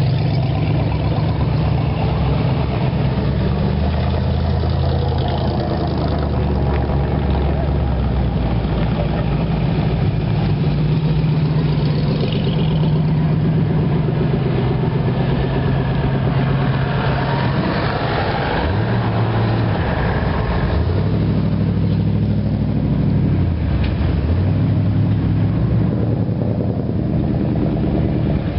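Engines of hot rods and classic pickup trucks running at low speed as they cruise past one after another. The engine pitch drops and climbs again a couple of times in the second half.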